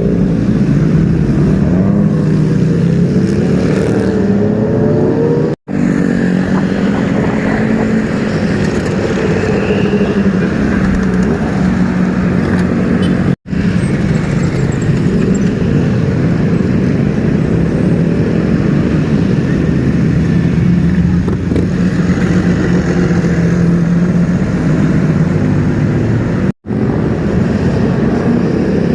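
Superbike engines running loudly with some revving, the pitch rising and falling in places. The sound breaks off for an instant three times.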